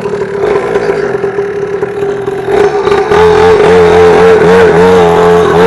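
Warmed-up 50cc two-stroke mini dirt bike engine idling steadily, then from about three seconds in running louder with the pitch rising and dipping in repeated small throttle blips.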